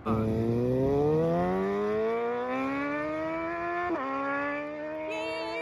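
Tuned 2020 Suzuki GSX-R750's inline-four, with a slip-on exhaust, accelerating hard: its pitch climbs steadily through one gear. About four seconds in there is a quick upshift with a sharp drop in pitch, and it pulls on, rising again.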